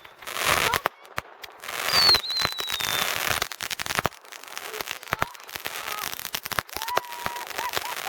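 Consumer fireworks going off: a dense, irregular run of crackling pops and bangs, with a falling whistle about two seconds in.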